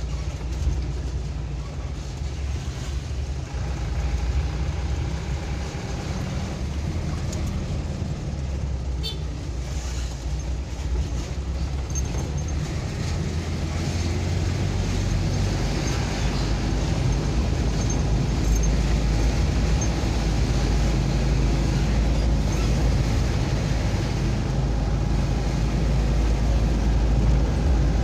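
A vehicle on the move: steady low engine and road rumble, growing somewhat louder from about halfway through.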